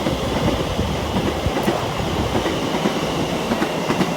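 Class 720 electric multiple unit running past on the line, its wheels clattering over the rails in a steady, dense stream of knocks.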